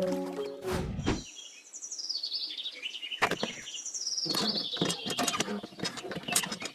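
Bird chirping: a run of high chirps stepping down in pitch, followed by scattered clicks and rustling.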